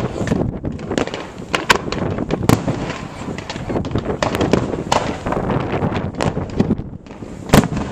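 Fireworks display: an irregular run of bangs and crackles from exploding aerial shells, several a second at times, with the loudest bang near the end.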